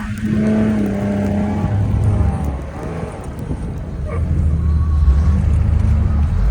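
A 4x4 vehicle's engine running steadily, getting louder about four seconds in.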